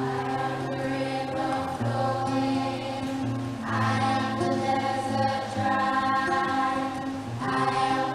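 A choir singing over sustained low accompanying notes that change every second or so, growing fuller and louder about halfway through.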